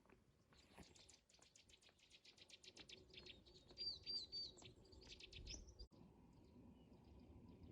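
Faint small-bird chatter: a rapid run of high ticking calls, about ten a second, with three short chirps in the middle, cut off suddenly near the end.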